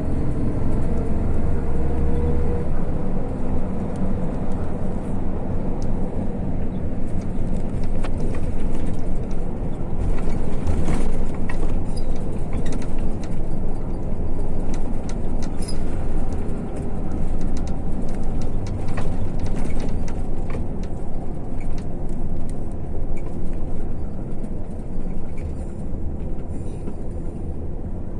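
MAZ-152 coach bus on the move, heard from inside the cabin: steady engine and road rumble with scattered rattles and clicks.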